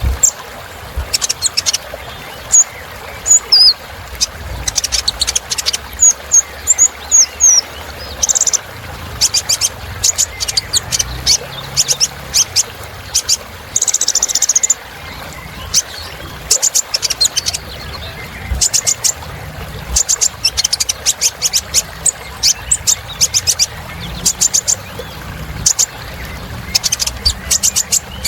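A kolibri ninja sunbird singing: rapid runs of sharp, very high chirps and trills, broken by a few short whistled notes and a brief buzzy note about halfway through.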